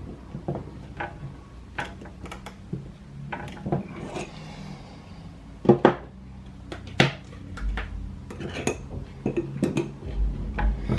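Skateboard bearings clicking and knocking as they are fitted onto the truck axle and pressed into the urethane wheels, a run of irregular metallic clicks with a few louder knocks about six and seven seconds in.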